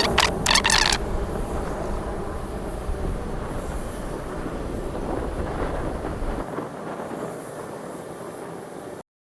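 Rocket launch roar: a broad, rushing rumble with a few sharp crackles in the first second, slowly fading as the deepest part drops away, then cut off abruptly near the end.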